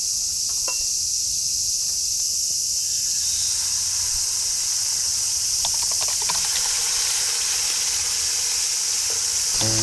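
Steady high-pitched chorus of insects, with a few faint clicks about two-thirds of the way in.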